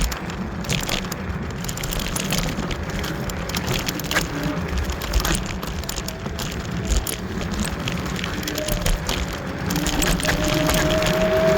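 A Kaabo Wolf Warrior electric scooter ridden over a rough dirt trail, with a dense rumble and crackle of tyres and wind and scattered sharp knocks from bumps. The hub motors' steady whine comes up strongly near the end.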